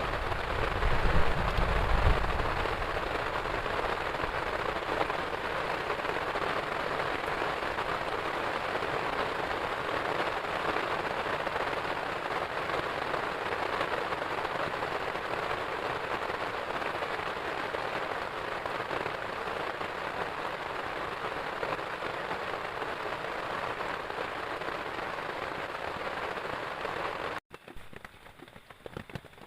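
Heavy rain falling steadily, with a low rumble in the first couple of seconds. The rain cuts off abruptly near the end.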